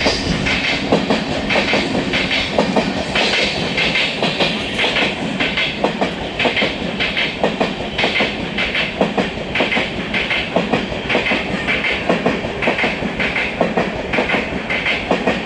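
Train running along the track, its wheels clattering in a repeated clickety-clack over the rail joints with a steady rumble underneath.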